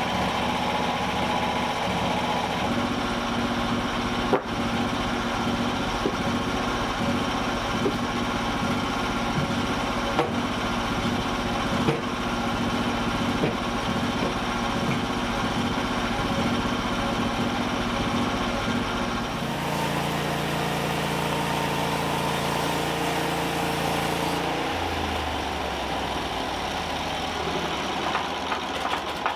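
A small engine running steadily, with a few sharp knocks. About two-thirds through, the sound changes abruptly to a different, lower steady drone.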